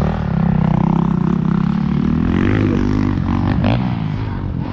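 Motocross bike engine running hard, holding its revs for about two seconds, then dropping and climbing again as the throttle is rolled off and back on.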